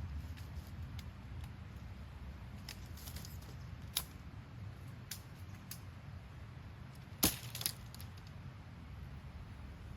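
A few sharp clicks and knocks, one about four seconds in and two close together near three-quarters of the way through, over a low steady rumble.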